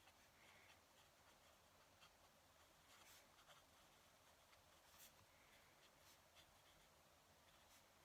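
Fountain pen nib scratching faintly on paper in short, irregular strokes, the most distinct about halfway through.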